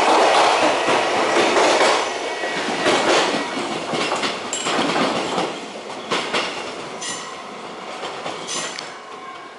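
A train passing and moving away, its wheels clacking over the rail joints while the noise fades.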